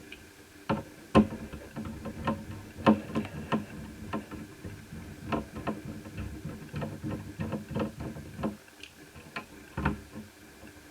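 Irregular clicks and taps of a screwdriver working the screws of a laptop's CPU heatsink, with metal and plastic parts knocking and rattling. There are two sharper knocks about 1 s and 3 s in.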